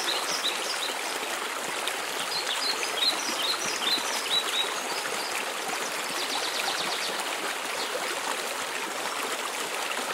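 Steady rush of water falling at a mountain waterfall. Over it, a bird sings short series of quick high chirps at the start and again from about two seconds in, then a brief fast high trill near the middle.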